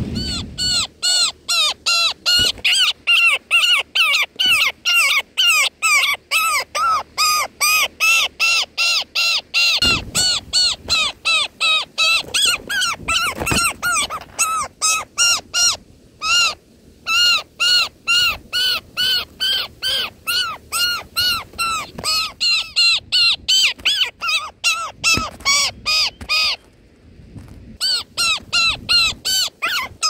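European roller nestling begging: a fast, steady run of short harsh calls, about four a second, breaking off briefly twice in the second half.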